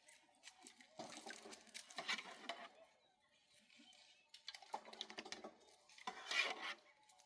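Dishes and utensils clattering and clinking in three irregular bursts, with short pauses between them.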